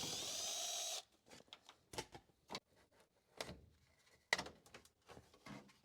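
A steady, high-pitched squeal lasting about a second, then scattered clicks and knocks of tools and loose parts being handled during cab interior disassembly.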